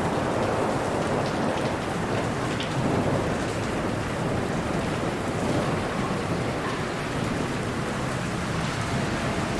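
Steady rain falling, with a low rumble of distant thunder underneath.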